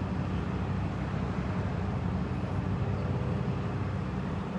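Steady low rumble of vehicle engines running at idle, with faint humming tones and no change in level.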